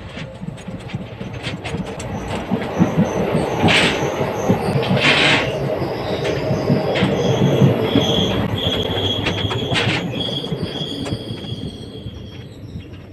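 Inside a moving passenger train's sleeper coach: wheels running over the rails with a steady rumble and fine clattering clicks, growing louder toward the middle and easing near the end. Two short hissing bursts come about four and five seconds in, and a thin high squeal holds for a few seconds in the second half.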